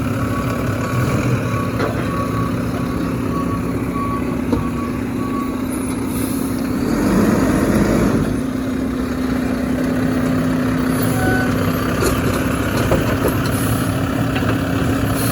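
Garbage truck engine running steadily, with its reversing alarm beeping in a regular string for the first few seconds. The engine swells louder for about a second midway.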